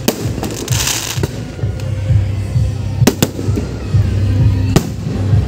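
Aerial fireworks going off overhead: several sharp bangs, two close together around three seconds in and another just before the end, with a crackling hiss about a second in. Music with a deep bass line plays underneath.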